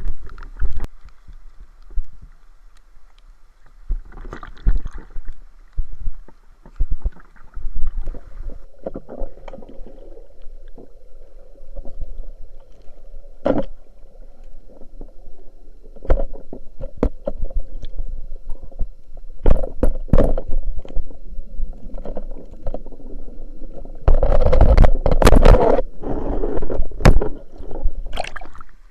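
Water sloshing and gurgling with irregular knocks and bumps, louder and busier for a few seconds near the end.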